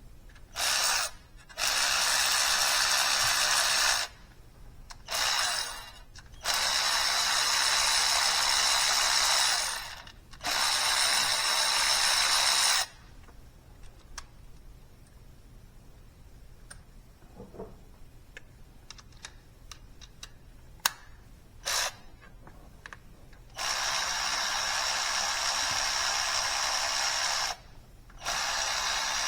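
A handheld power tool running in repeated bursts of one to four seconds, with pauses between them and a longer quiet stretch in the middle.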